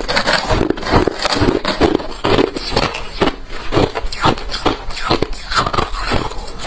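Close-miked chewing of hard refrozen crushed ice: a steady run of rapid, irregular crunches from ice cracking between the teeth.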